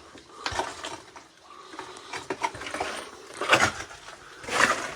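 Footsteps crunching over rocky ground, a handful of irregular steps, the loudest about three and a half and four and a half seconds in.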